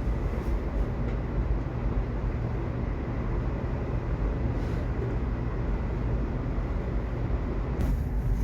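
Subway train running: a steady low rumble with a few faint clicks.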